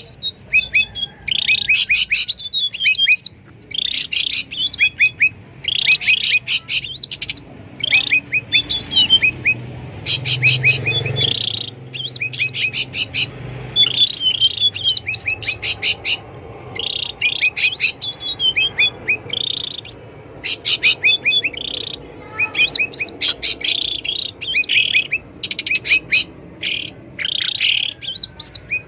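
Cucak ranting (black-headed bulbul) calling noisily, as a teaser recording meant to make caged birds answer. The calls come as quick runs of short, downward-slurred chirps and chatter, burst after burst with brief gaps.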